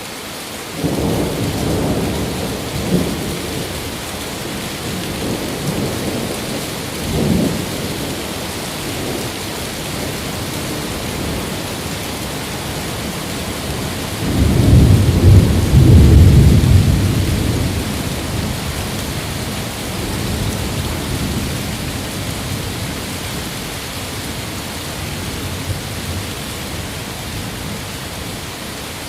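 Steady heavy rain with rolling thunder: a few low rumbles in the first several seconds, then a loud peal about halfway through that rolls on for a few seconds before fading back into the rain.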